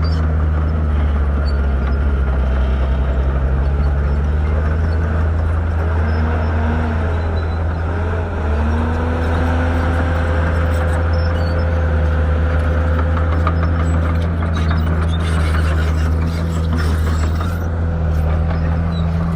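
Shantui bulldozer's diesel engine running steadily and loud. A thinner whine rises and falls in pitch in the middle, then holds steady for a few seconds.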